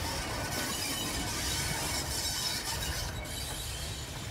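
Train running on the rails: a steady metallic hiss and rumble with faint high-pitched tones over it.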